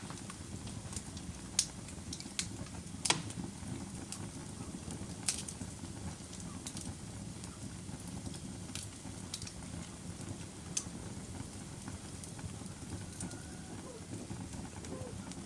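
Wood fire crackling in a fireplace: irregular sharp pops and snaps, about a dozen, over a steady low rustle of burning.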